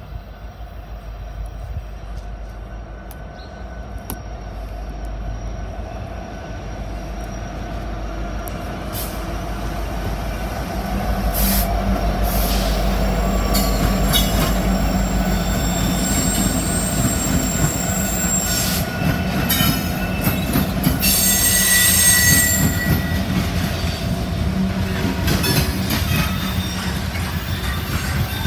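Norfolk Southern freight train passing close by: the diesel locomotives' rumble grows louder over the first ten seconds or so as they approach. Then steel wheels squeal in high thin tones and click over the rail joints as covered hopper cars roll past.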